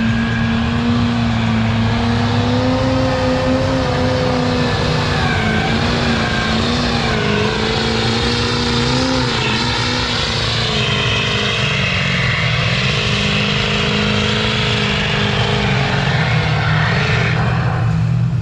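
Off-road vehicle engine running under load, its pitch wavering up and down as the throttle changes, with a second higher engine note joining about halfway through.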